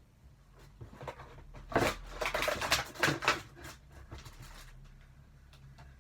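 A quick flurry of rustling and clicking handling noises about two seconds in, then scattered faint clicks.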